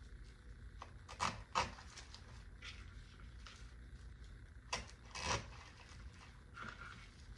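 Rustling of artificial greenery stems being handled and pushed into an arrangement: a few short brushes, two about a second in and two more around five seconds.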